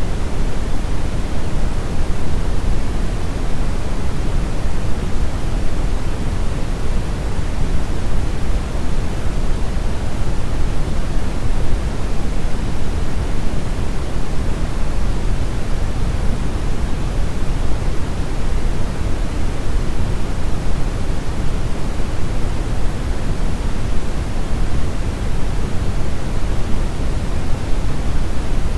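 Steady brown noise: a deep, even rushing hiss with most of its weight in the low end, unchanging throughout.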